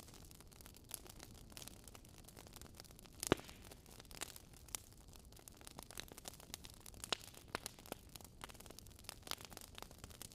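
Wood fire crackling: irregular pops and snaps over a faint hiss, with the sharpest pop about three seconds in.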